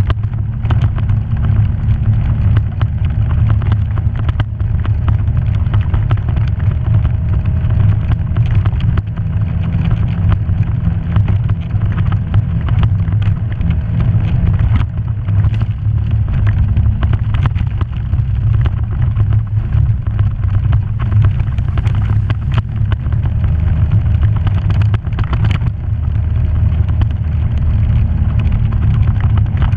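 Off-road vehicle engine running steadily as it drives along a rough trail, with frequent knocks and rattles from the bumpy ground.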